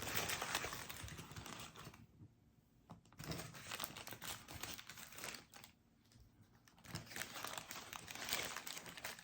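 Paper burger wrapper being unfolded and crinkled by hand, rustling in uneven bursts with two brief pauses.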